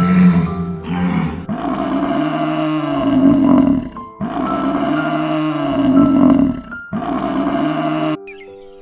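A big cat roaring in a run of long calls, each two to three seconds, with short breaks between them, over background music.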